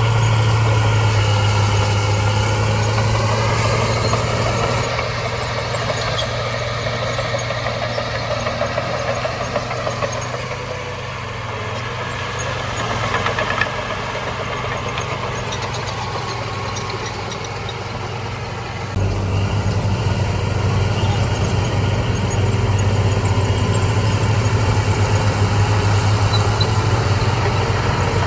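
Heavy diesel engine of earthmoving machinery running steadily with a low hum, rising in pitch briefly in the first few seconds. The sound changes abruptly about two-thirds of the way through, becoming louder with a stronger low throb.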